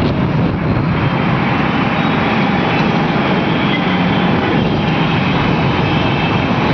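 Steady, loud rush of wind and road noise heard from a moving motorbike in city traffic.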